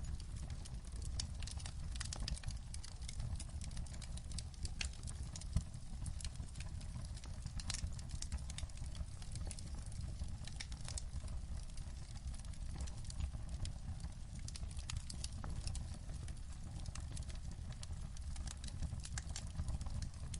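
Wood fire crackling in a fireplace, with many small irregular pops and snaps over a steady low rumble.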